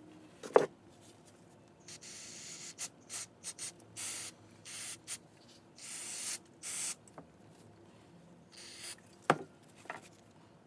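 Tecumseh carburetor parts (bowl nut and pickup jet) being cleaned: a series of short hissing bursts in the middle, with a sharp tap about half a second in and another near the end.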